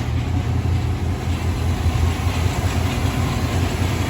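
Two-door Chevy Tahoe's engine idling steadily, with its air conditioning running.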